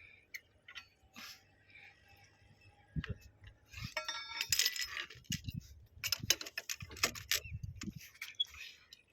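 Metal tools and fittings clinking and rattling as they are handled: a run of sharp irregular clinks, with a short ringing metallic note about four seconds in.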